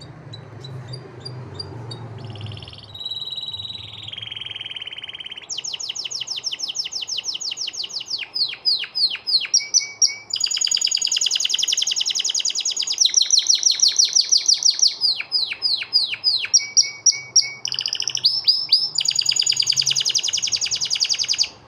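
Male white canary singing a long song of fast trills, switching from one rapidly repeated note to another every second or two. The song stops suddenly near the end.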